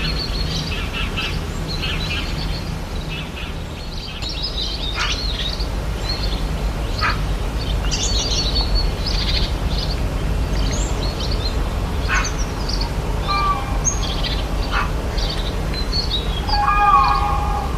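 Rainforest birds chirping and calling, many short overlapping chirps and whistles over a steady low rumble. Near the end comes a louder call with several tones.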